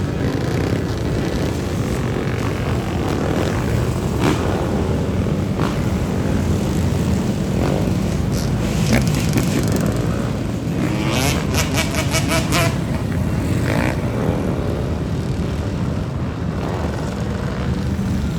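A large group of motorcycles running and revving along a city street, the engines blending into a dense, continuous drone, with a short run of rapid pulses about eleven seconds in.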